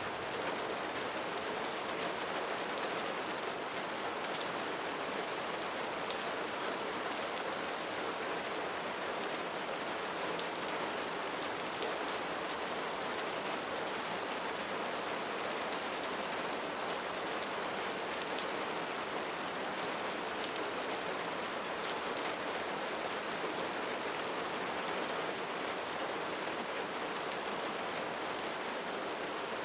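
Steady rain falling, a dense, even patter of drops that holds at one level throughout.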